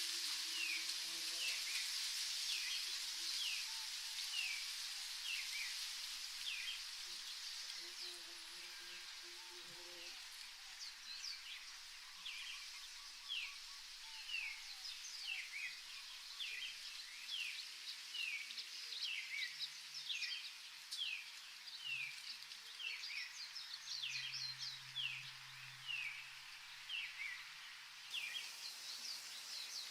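Birds chirping: many short, quick, falling chirps repeated a few times a second over a faint high hiss, which fades after about ten seconds.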